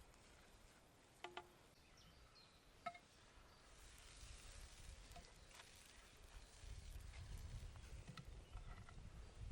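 Quiet outdoor background with two brief soft clinks in the first few seconds, then a low rumble that rises in the second half.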